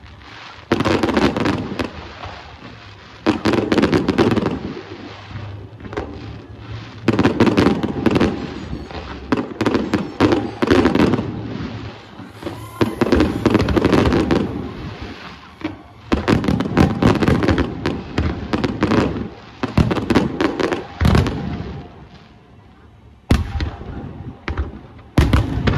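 Fireworks display: volleys of aerial shells bursting in dense clusters of bangs and crackle, one volley every three to four seconds with short lulls between.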